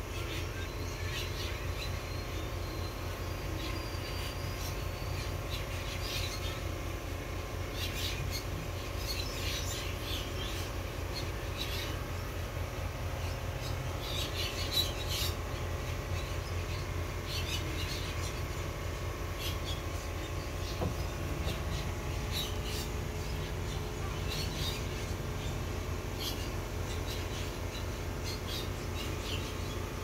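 Small birds chirping: short high calls scattered through, with more of them about halfway through. Under them runs a steady low mechanical hum with a fast, even pulse.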